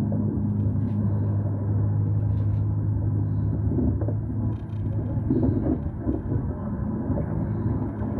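A steady low vehicle rumble with a constant hum.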